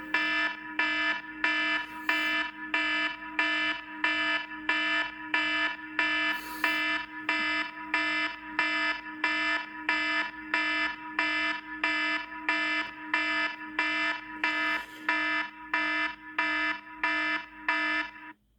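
An old iPhone ringtone: an alarm-like electronic tone that pulses evenly about twice a second over a steady low hum, then cuts off suddenly near the end.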